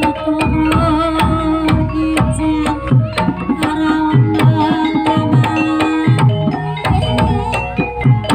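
Javanese gamelan music accompanying a barongan dance: hand-drum (kendang) strokes, some bending in pitch, over ringing pitched metal percussion playing a busy interlocking pattern.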